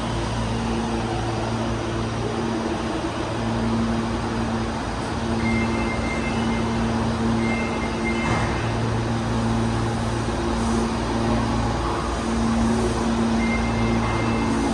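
A Meitetsu 300 series electric train stands at the platform, its onboard equipment humming steadily. Short, high-pitched electronic beeps repeat in bursts partway through and again near the end.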